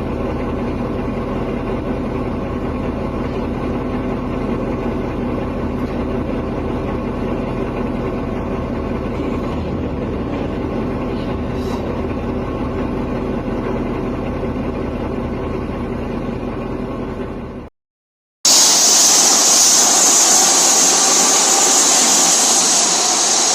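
An engine running steadily at an even speed with a constant hum. It cuts off suddenly and, after a brief gap, gives way to a loud, even rushing noise.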